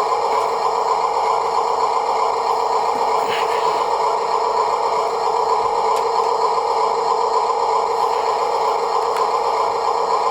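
Huina 1582 RC dump truck's electric motor and metal gearbox running, a steady whirring hum.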